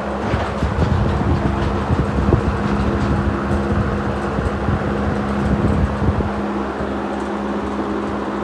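Two vintage Fasco box fans, a model 200 and a model 2001, running together on low speed: a steady motor hum under loud rushing air. An uneven low rumble comes and goes over the first six seconds, then settles.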